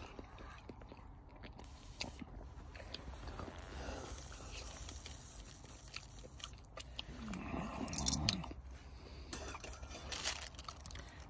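Someone chewing and biting food close to the microphone: quiet, irregular crunching with scattered clicks, busiest about eight seconds in.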